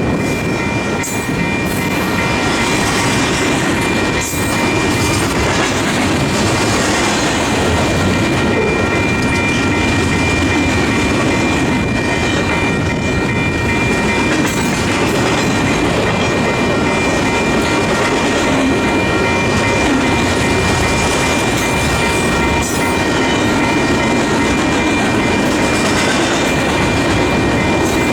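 Double-stack intermodal freight train rolling past, its wheels clacking over the rail joints, with several steady high ringing tones throughout. Heavy wind buffets the microphone.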